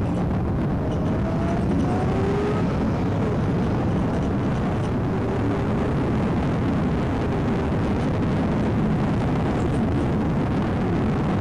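Steady low rumble and road noise of a vehicle driving.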